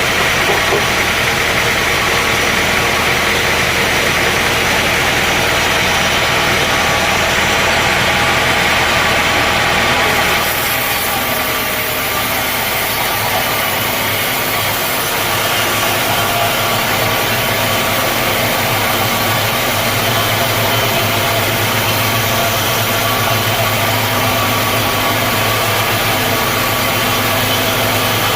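Sawmill machinery running steadily, an engine-driven drone. About ten seconds in the sound changes abruptly to a different steady hum.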